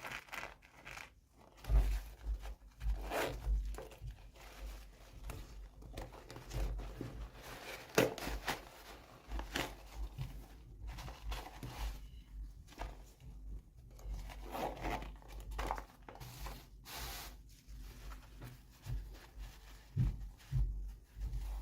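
Toy packaging being torn open and crinkled by hand: irregular tearing and rustling with scattered small taps and clicks.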